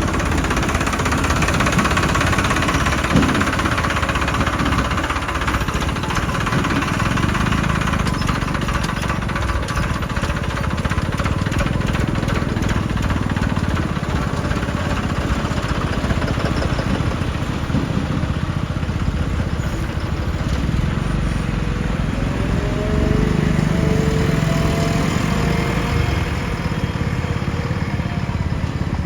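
Heavy-machinery diesel engine running steadily while at work, with a faint whine that rises slowly in pitch near the end.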